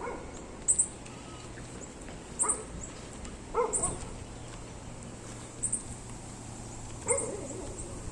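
A dog barking several times at intervals of a second or more, with short high chirps in between.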